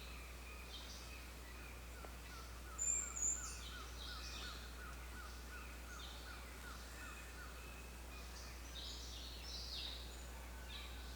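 Several wild birds calling and chirping, with one bird repeating a short note about three to four times a second for several seconds; the loudest calls come about three seconds in. A steady low hum runs underneath.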